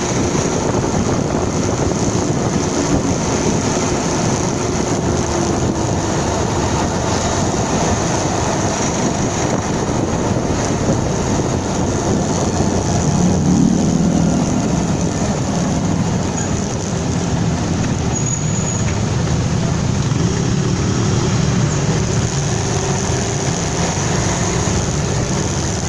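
Motorcycle on the move: a steady rush of wind and road noise on the microphone, with the engine running underneath and growing a little louder about halfway through.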